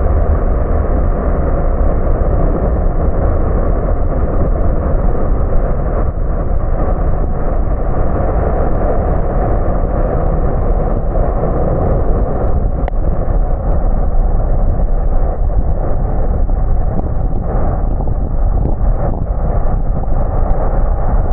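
Car driving on a wet road: a steady, loud, muffled rumble of tyre and road noise with engine drone, with a few faint ticks in the later seconds.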